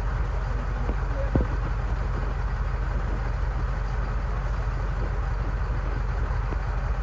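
Vehicle engine idling steadily with a low, even rumble, and a single short knock about a second and a half in.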